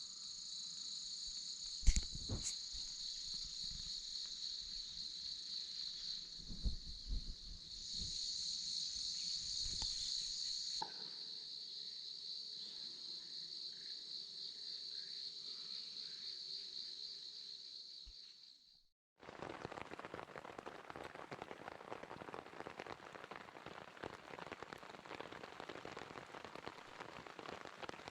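A steady high-pitched insect chorus, with a few dull knocks in the first half. About two-thirds of the way through it stops abruptly and gives way to a dense, even crackling hiss.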